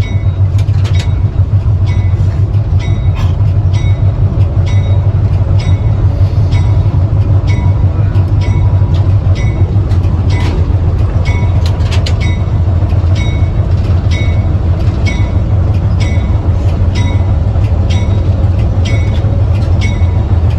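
Train running with a steady low rumble, while a bell strikes at an even beat, somewhat more than once a second.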